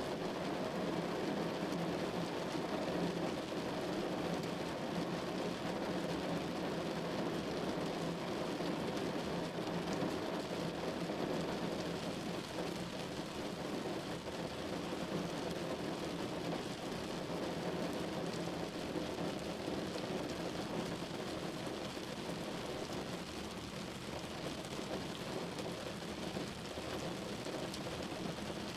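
Steady rain falling on a window pane, an even, continuous patter with no breaks.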